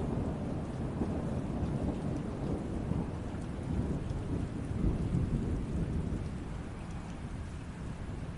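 Steady rain falling, with a low rolling rumble of thunder underneath that swells early on and around the middle, then eases off toward the end.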